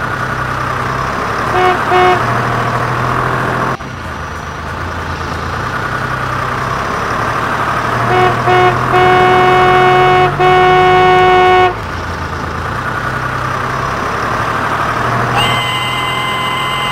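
Battery-powered toy trains running on their track with a steady motor whir and rumble, and an electronic toy horn tooting: two short toots a second or two in, then two short toots and two long ones in the middle.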